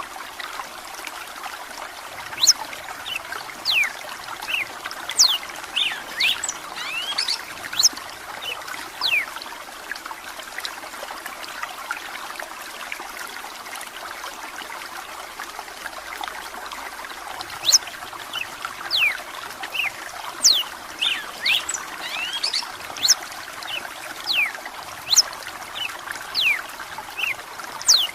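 Red-cowled cardinal singing in two long bouts of quick, sharp whistled notes that sweep mostly downward, with a pause of several seconds between them. A steady sound of running water runs underneath.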